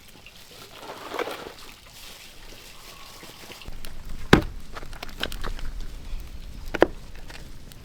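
A few sharp knocks and clicks, the loudest two about halfway through and near the end, over a low rumble that starts before the first of them.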